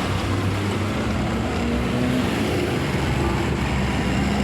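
Motorcycle engine running steadily while riding, under a constant rush of wind noise on the microphone.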